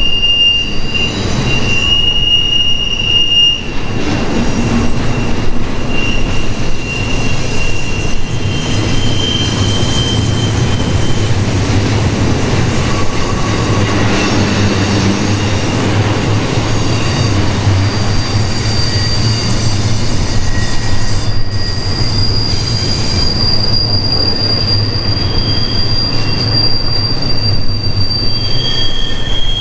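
Freight train rolling past, its steel wheels squealing against the rail in high, thin tones that come and go and shift in pitch, over a steady low rumble.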